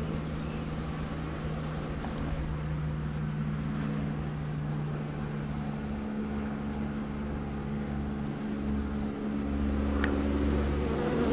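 Honey bees humming steadily around a freshly hived swarm box. The drone steps up slightly in pitch about halfway through, over a low rumble.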